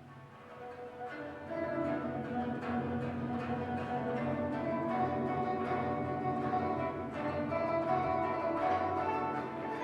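Koto music: a duo of plucked koto strings playing a melody with many ringing notes, softly at first and growing fuller about a second and a half in.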